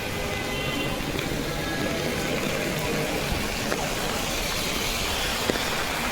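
Steady rain falling on a city street, with road traffic running underneath and a few sharp drop taps.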